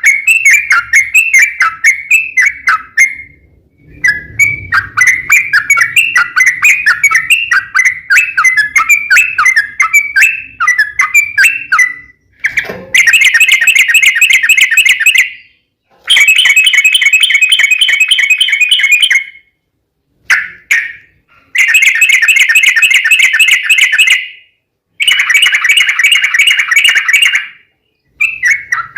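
Yellow-vented bulbul (trucukan) song: bubbly, chattering phrases for the first half, then a series of long, rapid trills of about three seconds each, separated by short pauses.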